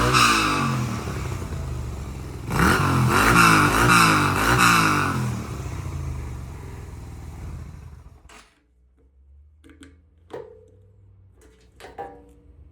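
Yamaha Renaissa's 250cc V-twin revved in a series of quick blips, then settling and dying away until the engine stops about eight seconds in. A few light clicks and knocks follow.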